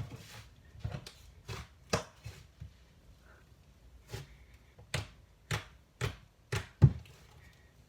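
Butter slime made with soft clay being squeezed and poked by hand, giving about a dozen sharp clicks and pops at uneven intervals. The loudest pop comes near the end.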